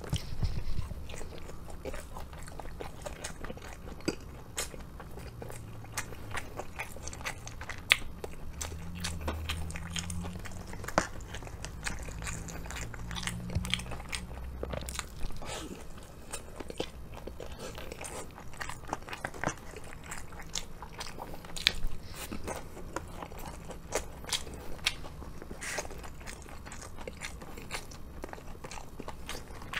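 Close-miked chewing and crunching of crispy fried chicken karaage, with many sharp crackles from the batter.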